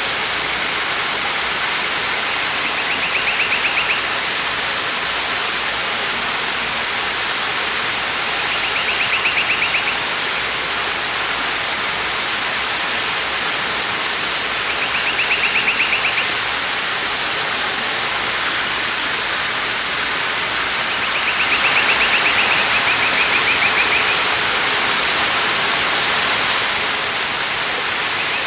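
Waterfall pouring in a steady, even rush. About every six seconds a high, buzzy trill lasting a second or two rises above it, four times in all, the third one longer.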